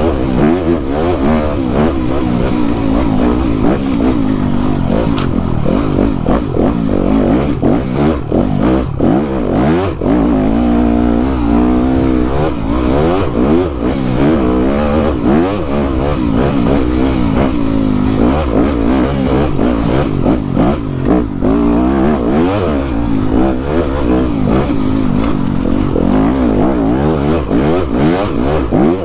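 Dirt bike engine heard from on the bike, revving up and down again and again as the throttle is worked through tight, rough trail, with scattered knocks and clatter from the bike over the ground.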